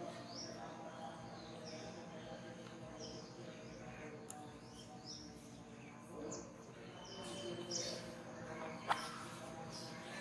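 A bird chirping repeatedly, short high falling notes about once a second, over a steady outdoor background. A single sharp click a little before the end is the loudest sound.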